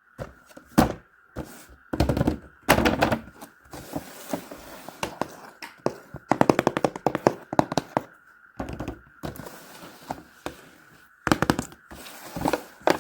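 Irregular knocks, taps and scrapes from a toy box and its contents being handled and opened, with a dense rattling run about six seconds in. A faint steady high-pitched whine runs underneath.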